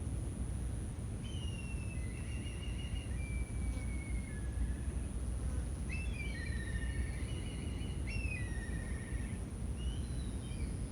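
A songbird singing short phrases of trills and downward-sliding notes, four times, over a steady low rumble and a constant high, thin tone.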